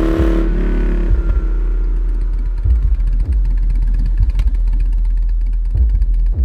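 Harley-Davidson motorcycle engine running, its pitch falling over the first second as the revs drop, then settling into a steady low rumble.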